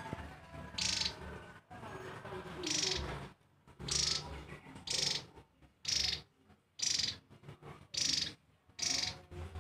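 Javan tesia repeating a short, high trilling call about once a second, nine times in a row, over a faint low hum.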